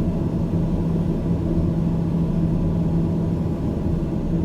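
Steady aircraft engine drone: a low rumble with a constant hum that holds level throughout.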